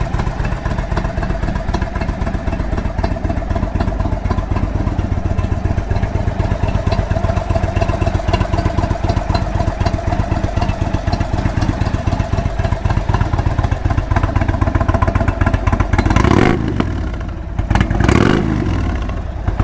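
2019 Indian Chieftain's Thunder Stroke 111 V-twin, fitted with a stage 1 intake and stage 2 cams, idling with a fast, even pulse. Near the end the throttle is blipped lightly twice, each time rising and dropping back to idle. It is held to minimum throttle because the engine is not yet warmed up.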